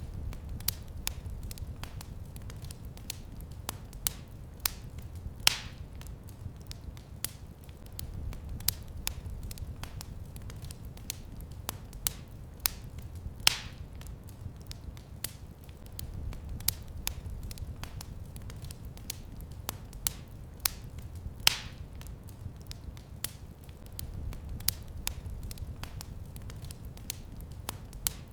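Fire in a fireplace crackling: a steady run of small snaps over a low rumble. A louder pop comes about every eight seconds.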